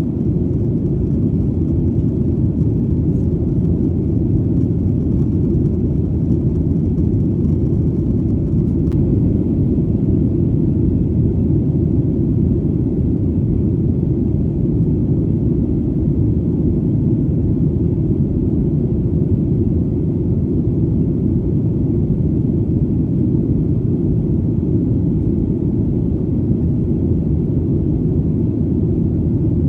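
Steady, deep rumble of airplane engine noise, even in level and pitch throughout, with almost nothing in the higher frequencies.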